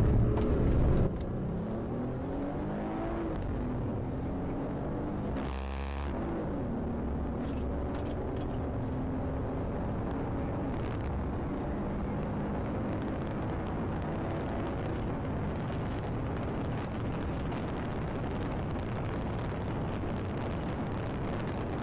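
Car engine running and accelerating, its pitch climbing and dropping several times as it revs through the gears, with a brief louder rush of noise about six seconds in.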